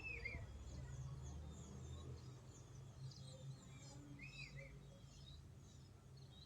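Faint chirping and calling of several small birds over a low steady hum. Two louder arched calls come at the start and again about four seconds in.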